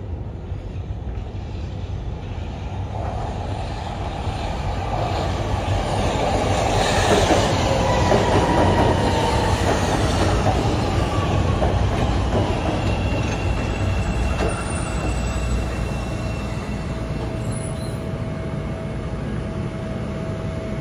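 CTA 5000-series rapid-transit train pulling into an elevated platform, getting louder as the cars pass close by, with a falling squeal of the wheels as it slows. Once the train has stopped, a steady hum holds.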